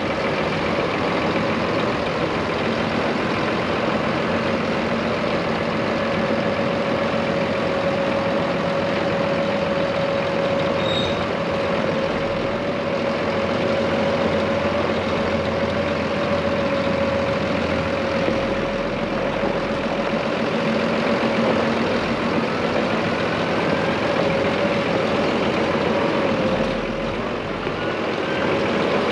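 2015 Case IH Magnum 180 tractor's diesel engine running steadily, with a steady whine over the engine noise.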